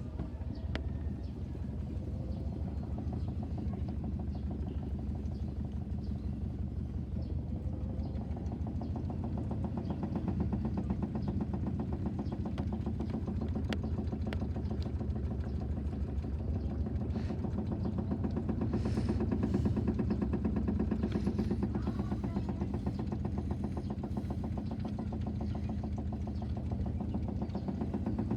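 Washing machine on its spin cycle: the drum turning fast with a low hum and a fast, even beat, swelling slightly about two-thirds through.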